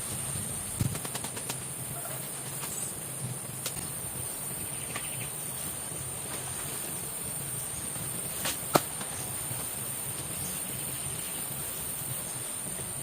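Forest ambience: a steady, high, thin insect drone over a low hiss, broken by a few sharp clicks or knocks, the sharpest about nine seconds in.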